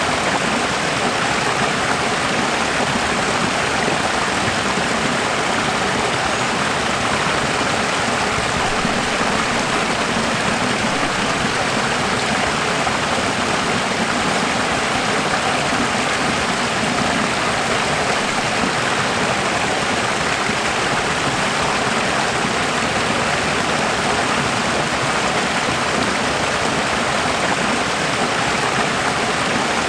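Running water: a steady, even rush like a stream or small waterfall.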